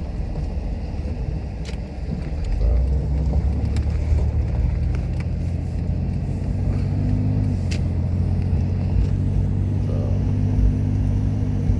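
Car engine and road noise while driving, a steady low rumble that grows a little louder and fuller about two and a half seconds in.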